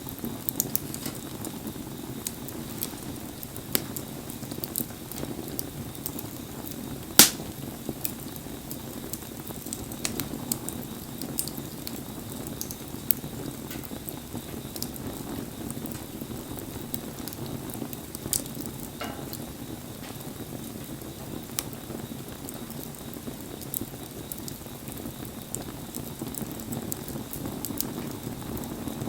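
Wood campfire crackling, with scattered sharp pops and one loud pop about seven seconds in, over a steady hiss of rain.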